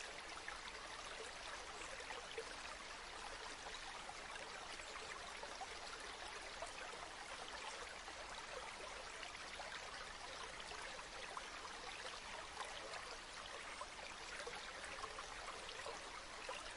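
River water flowing steadily: an even rush with fine trickling splashes.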